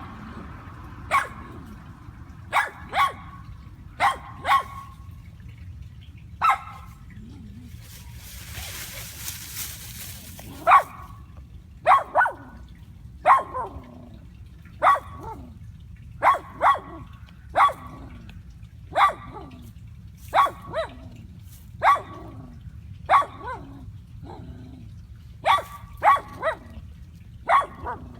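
A dog barking repeatedly in short, sharp barks, singly and in quick pairs, about one every second or so. A brief rushing hiss comes between about eight and ten seconds in.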